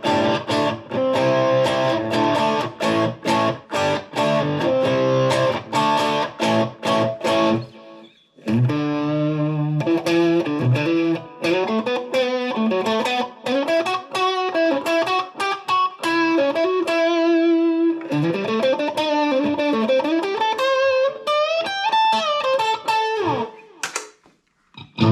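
Electric guitar, a Fender Stratocaster played through a Fender Mustang GTX100 modelling amp: about eight seconds of fast picked notes and chords, a brief pause, then a lead line with bent, wavering and sliding notes.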